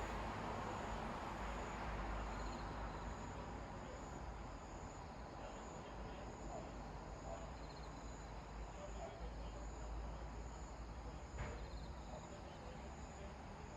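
Night insects chirping, a high, even chirp pulsing about once a second over a low, steady background noise, with a single sharp click about eleven seconds in.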